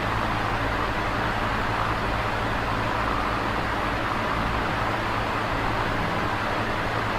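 Large box fan running at a constant speed: a steady rush of air with a low, even hum underneath.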